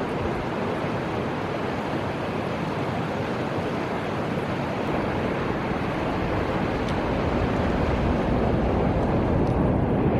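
Steady rushing of a wide river's flowing water, with a low rumble that grows louder over the last few seconds.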